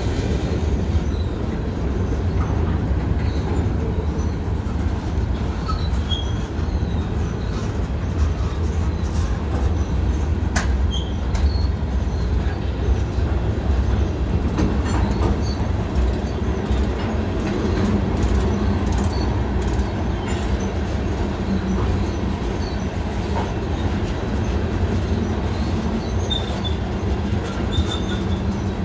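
New York & Atlantic Railway freight train's cars rolling past on the adjacent track: a steady heavy rumble of wheels on rail, with brief high wheel squeals and an occasional sharp clank.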